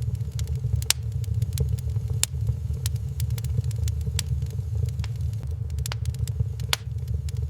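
Wood fire burning in a fireplace: irregular sharp crackles and pops of the burning logs, several a second at times, over a steady low rumble.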